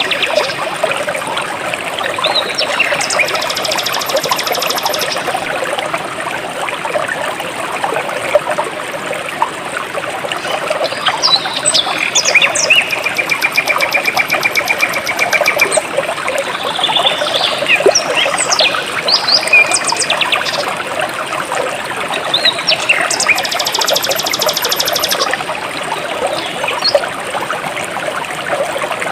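Jungle stream water flowing steadily, with birds chirping over it and giving rapid high trills a few times.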